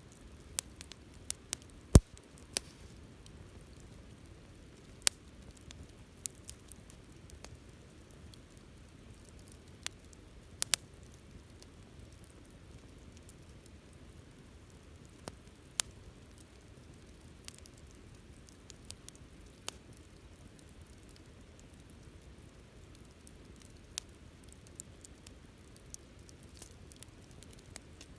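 Campfire crackling: irregular sharp pops and snaps over a soft, steady low rush of the flames, the loudest pop about two seconds in.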